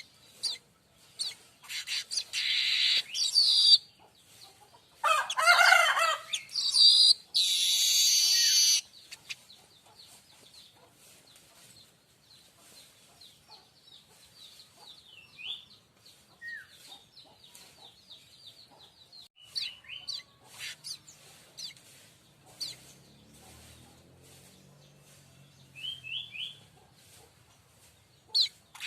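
Manyar kembang weaver singing: loud buzzy, wheezing song phrases in the first nine seconds, among them a lower, pitched warbling call about five seconds in, then only scattered soft chirps and clicks.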